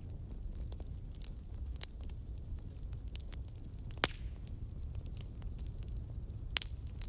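Campfire of burning wood crackling: a steady low rumble of flame with irregular sharp pops and snaps, the loudest pop about four seconds in.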